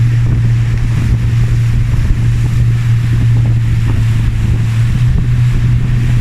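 Boat engine running at a steady low pitch, with wind buffeting the microphone.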